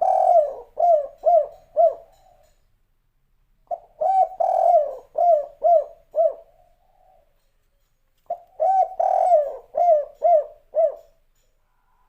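Spotted dove (derkuku, tekukur) cooing a 'kuk 3' phrase: a long coo followed by three short notes, each rising and falling. The phrase repeats three times, about four seconds apart.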